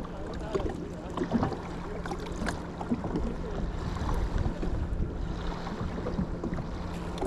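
Wind rumbling on the microphone, with a few scattered small clicks and knocks from handling fishing tackle while tying on a jig head.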